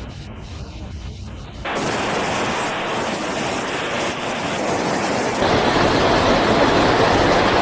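Loud, steady rushing of water, with no distinct events in it. It jumps abruptly louder about two seconds in and again about five and a half seconds in.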